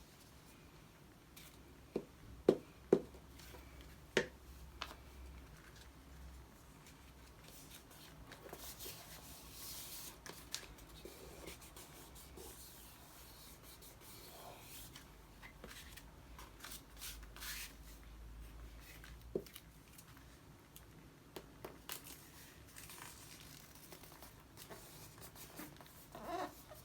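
Paper crafting at a desk: hands moving and rubbing paper, with scratchy rustling throughout. A few sharp clicks or taps come about two to four seconds in.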